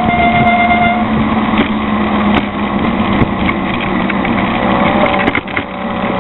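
Small engine of a motorized bicycle running at a steady pitch while riding.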